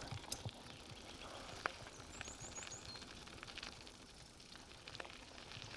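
Faint steady rustle with a few light clicks, and a small bird giving four quick high chirps about two seconds in.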